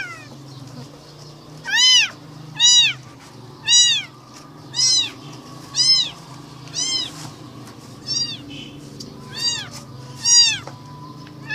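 A newborn kitten, about three days old, meowing over and over: about nine short, high, thin cries, each rising then falling in pitch, roughly one a second.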